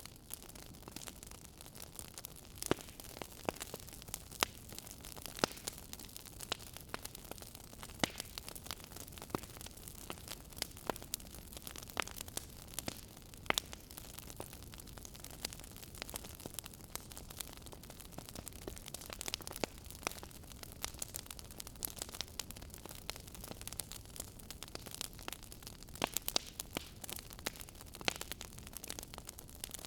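Wood fire crackling in a fireplace: irregular sharp pops and snaps over a steady low hiss.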